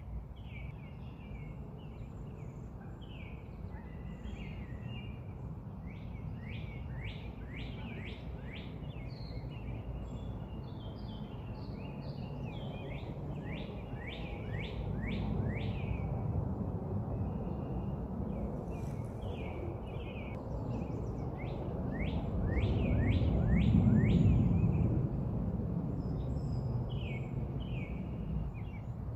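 Wild songbirds singing, with repeated runs of short high notes that each slide downward, over a steady low rumble that swells twice, most strongly a little past the middle.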